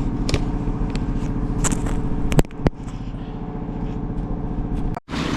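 An engine running steadily with an even, pulsing hum; it drops in level after a click about two and a half seconds in, and the sound cuts out briefly near the end.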